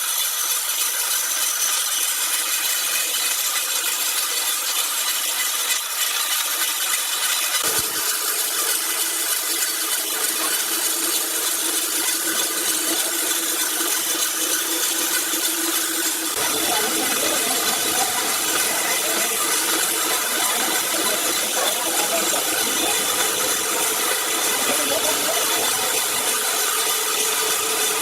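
Powered sawmill saw cutting through a large log: a steady, even noise with ringing tones. A lower sound joins about sixteen seconds in and continues.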